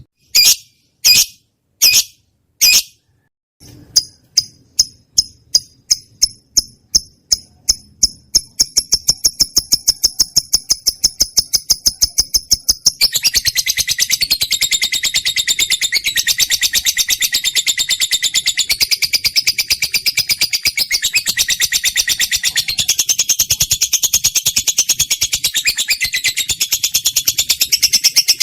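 Lovebird song: four separate shrill calls, then a run of rapid chirps that speeds up into a fast, even trill. About halfway through this turns into a dense, continuous chattering warble.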